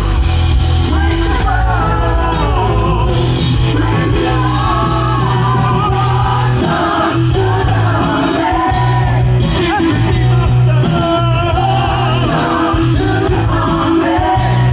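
Rock music with a lead singer over a band, loud and continuous, with a steady bass line.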